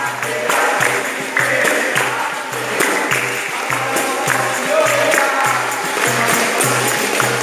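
Capoeira roda music: voices singing over a low percussion beat that repeats about twice a second, with pandeiro jingles and handclaps.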